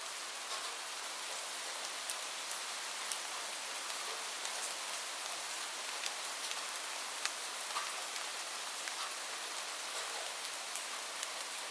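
Steady rain falling on a surface, an even hiss with scattered distinct drop ticks.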